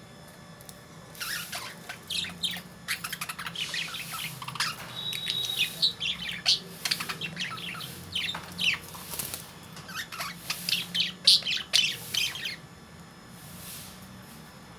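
Lovebirds chirping and chattering, a dense run of short, sharp, high-pitched calls that starts about a second in and breaks off a couple of seconds before the end.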